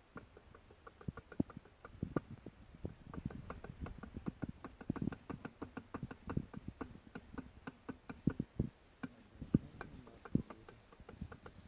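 Light, uneven metallic clicking and knocking, several a second, from a Jawa motorcycle engine: the engine knock being demonstrated.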